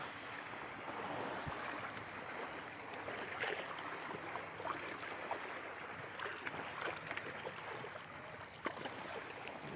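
Lake water washing against the shore: a steady wash with faint scattered ticks and small splashes.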